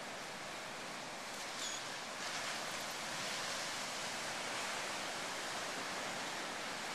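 Steady hiss of ocean surf washing in, swelling a little a couple of seconds in, with one brief high-pitched chirp about one and a half seconds in.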